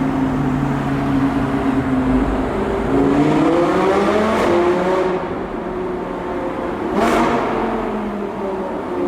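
Audi R8 V10 plus's V10 engine through a Capristo exhaust, running steadily and then accelerating hard, its note rising for a couple of seconds, with a short sharp crack about seven seconds in.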